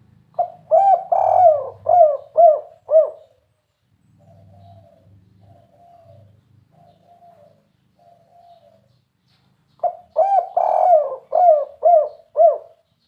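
Spotted dove (tekukur) cooing its 'kuk 3' song: a phrase of about six rounded coos soon after the start, a second matching phrase near the end, and softer cooing in between.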